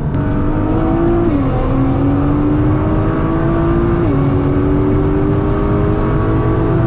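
Nissan GT-R's twin-turbo V6 at full throttle, accelerating hard through the gears in a drag race. Its pitch climbs steadily and drops sharply at each upshift: about a second in, again around four seconds in, and near the end.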